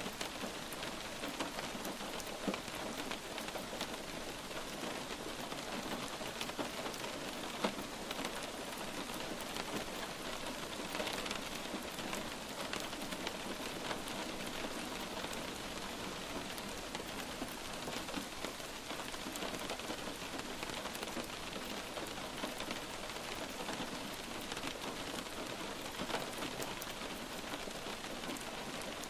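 Steady light rain falling, a constant hiss dotted with many small scattered drop ticks.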